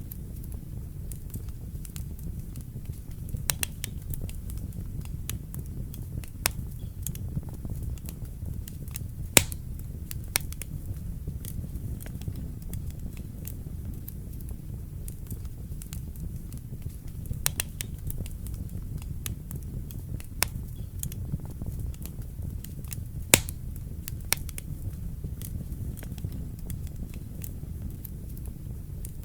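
Wood fire burning in a fireplace: a steady low rumble of flames with scattered sharp crackles and pops, two louder pops about a third of the way in and past the three-quarter mark.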